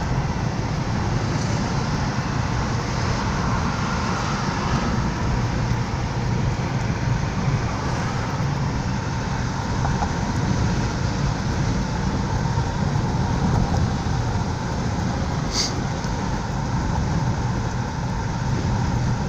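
Steady engine and tyre noise of a car heard from inside its moving cabin, with one brief click about three quarters of the way through.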